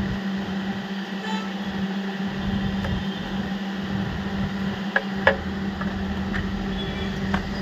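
A steady low electrical hum with a few sharp clicks and taps, two close together past the middle and one near the end.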